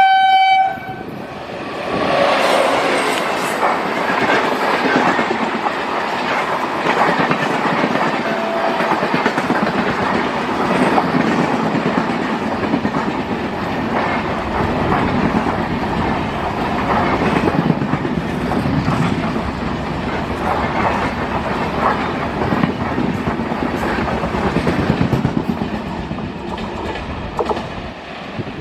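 A train horn gives a short blast, then a train runs past close by, with a steady rumble and rapid wheel clatter over the rail joints that go on without a break.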